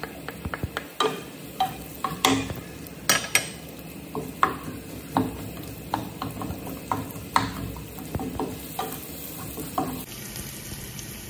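Chopped onion and garlic sizzling in hot oil in a small frying pan while a wooden spatula stirs them, knocking and scraping against the pan at irregular intervals.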